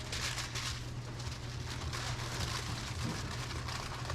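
Food sizzling in a commercial kitchen, a steady crackling hiss over a constant low hum.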